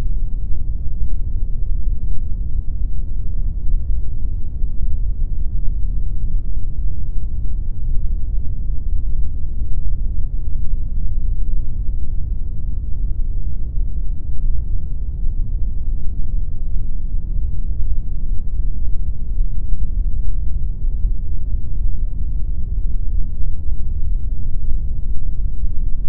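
Continuous pink noise: a steady, even rush weighted toward the low end, with no changes or events.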